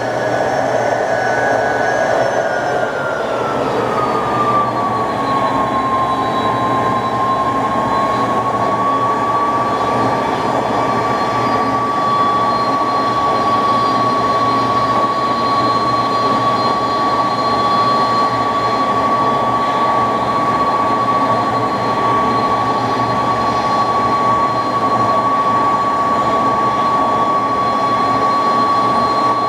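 McDonnell Douglas DC-10's jet engines running at high power during the takeoff, a steady roar with a strong whine. The whine falls in pitch over the first few seconds, then holds steady.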